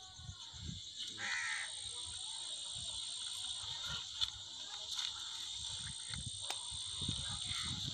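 Outdoor ambience: a steady high hiss, with a bird calling twice, about a second in and again near the end.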